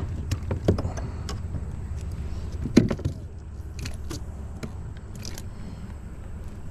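A few knocks and rattles of fishing gear handled in a kayak, the loudest about three seconds in, over a steady low rumble.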